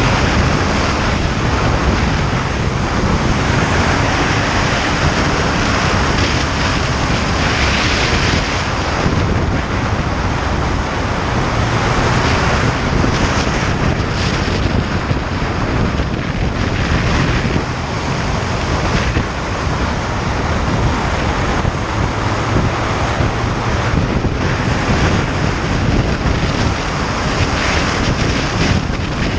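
Wind rushing over the microphone of a moving motorcycle, with the engine's low, steady hum underneath.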